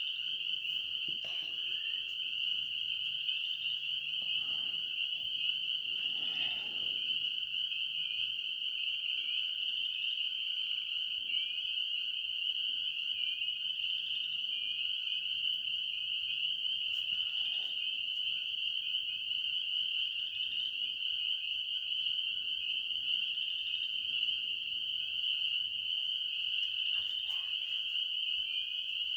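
A dense night chorus of frogs, high-pitched trilling calls overlapping without a break, with a few faint rustles.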